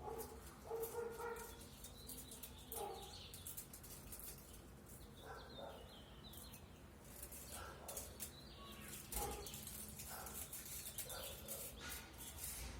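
Faint birds chirping, with a dog barking now and then.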